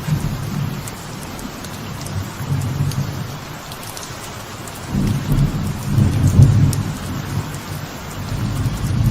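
Steady light rain falling on a veranda, with a low rumble of thunder that swells about five seconds in and eases off near the end.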